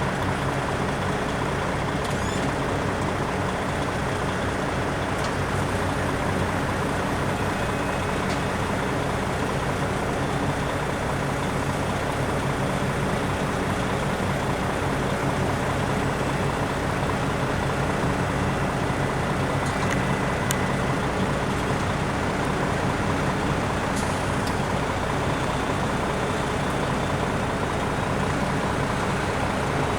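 1995 Ford AeroMax L9000 truck's diesel engine idling steadily, with an even low running note that does not change.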